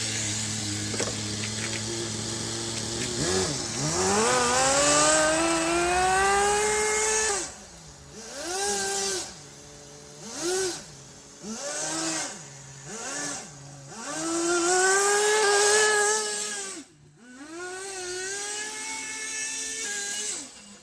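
Small nitro engine of a Kyosho Blizzard RC snow vehicle idling steadily, then revved as it drives: one long rev climbing in pitch, a string of short throttle blips, and another long rev that cuts off suddenly.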